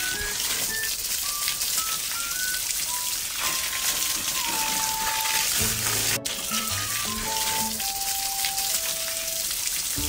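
Steady hissing spray of a water-jet sound effect, with a simple tune of single notes playing over it as background music. The sound drops out for a split second about six seconds in.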